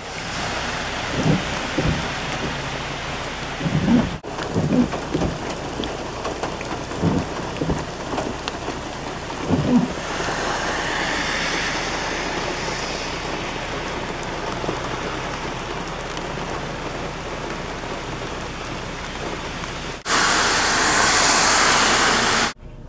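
Heavy rain pouring steadily in a thunderstorm, with several short low booms in the first ten seconds. For the last couple of seconds a louder hissing surge of rain takes over, then cuts off suddenly.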